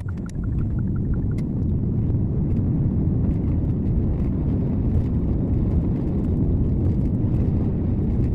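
Car driving along a road, a steady low rumble of road and engine noise as picked up by a dashcam's microphone inside the car.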